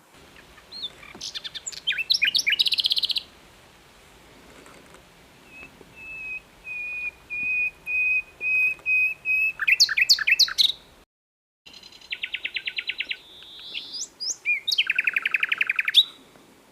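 Common nightingale singing in separate phrases: quick runs of notes and trills, one slow series of repeated whistled notes that grows louder, and fast rattling trills. The sound drops out completely for about half a second in the middle.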